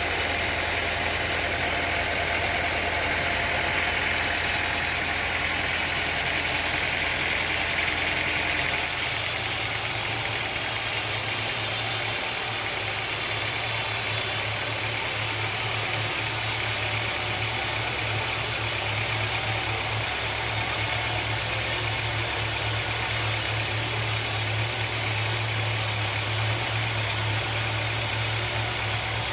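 Sawmill machinery running steadily, with its low hum shifting to a different pitch about nine seconds in.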